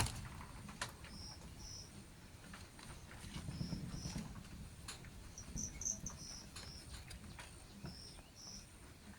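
Birds chirping in the background: short high chirps every second or so, some in quick pairs. There are scattered faint clicks and a low rumble about three to four seconds in, and a sharp click right at the start is the loudest sound.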